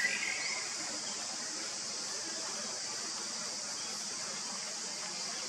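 Steady high-pitched drone of insects in the background, with a brief chirping call at the very start.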